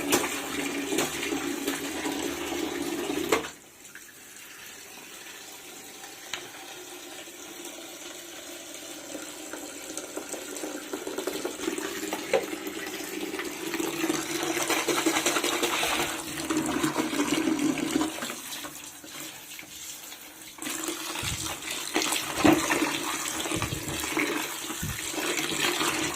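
Water running from a tap and splashing as helmet cushions and a visor are washed by hand, with a few short knocks.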